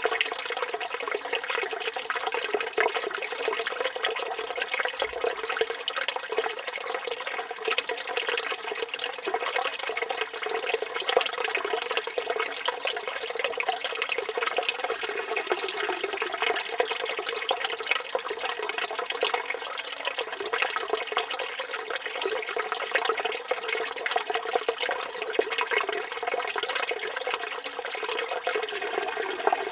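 Water from a village fountain's spout pouring steadily and splashing into its basin.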